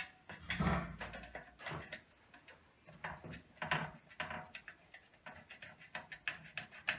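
Ratchet wrench clicking in short runs as a nut on a light fixture is backed off by hand, with a brief low vocal grunt about half a second in.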